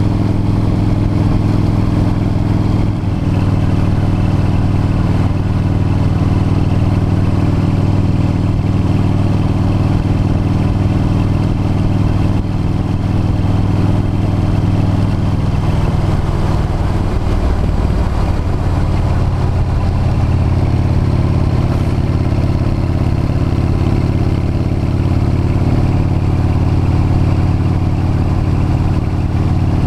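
V-twin cruiser motorcycle engine running steadily at road speed, recorded from a camera on the bike. Its note wavers about halfway through and settles at a slightly different pitch.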